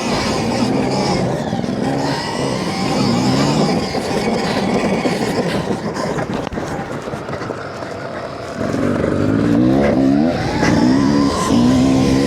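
Stark Varg electric motocross bike's motor whining in repeated rising sweeps as the throttle is opened, over a steady rushing noise. The sweeps come a few times at first, then louder and close together near the end.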